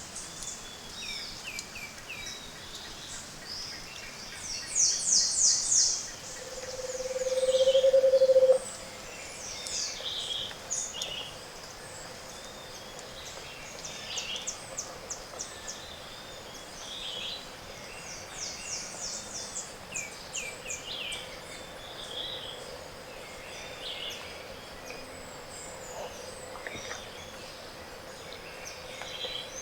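Tropical forest dawn chorus of many birds, with high chirps, chips and fast trills throughout. About six seconds in, a low hollow hooting swells steadily louder for two seconds and then stops abruptly. This is the song of a Scaled Antpitta.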